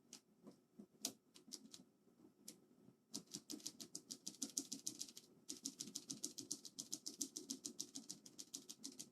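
Cherry MX Blue mechanical keyboard switch being pressed rapidly again and again, a fast run of sharp clicks at about eight a second, after a few scattered presses, with a short break a little after five seconds in. The key is being spammed to work an isopropyl alcohol and water mix through the sticky switch and clean it.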